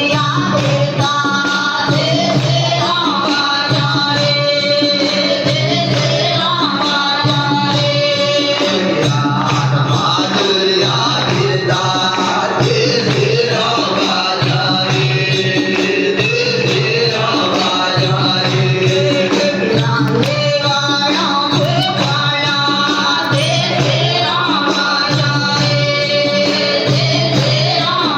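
A Christian devotional song sung in the Garasia language, with a voice singing over music that keeps a steady, repeating beat.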